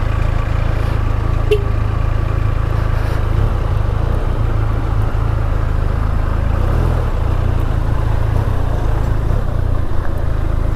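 Motorcycle riding along the road, heard as a steady low rumble of engine and wind noise on the rider's microphone, with a brief click about a second and a half in.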